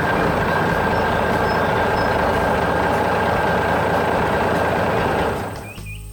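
Loud, steady rushing hiss with a faint steady whistle tone in it. It fades out about five seconds in.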